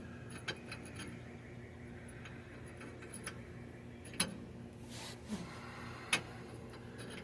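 A few scattered, sharp metallic clicks and taps as a new differential bearing race is handled and set into its seat, over a steady low hum.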